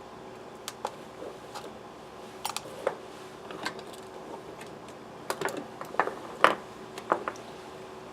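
Irregular light clicks and taps of small carburetor parts and hand tools being handled on a workbench during disassembly, the loudest tap about six and a half seconds in, over a faint steady hum.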